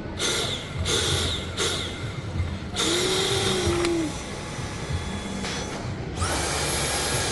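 Small vacuum-cleaner motor switched on and off: three short bursts, then a run of about a second, then a longer run that starts with a rising whine as it spins up.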